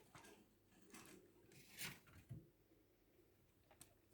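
Near silence: faint scattered rustles and light taps of a chinchilla moving about, with a slightly louder brief scrape about two seconds in.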